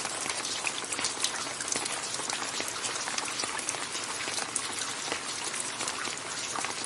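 Steady rain falling, a dense even hiss with many distinct drops pattering on a surface.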